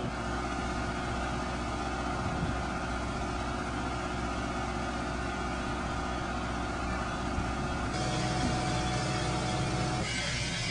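A train running with a steady low engine hum. The pattern of its tones changes about eight seconds in and again near the end.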